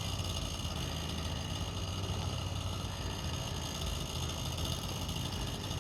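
An engine running steadily at a low hum, with no change in pitch.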